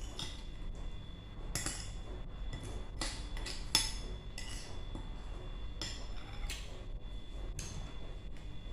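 Light clinks and taps of tableware, about seven scattered strikes, some ringing briefly, as food is handled and eaten.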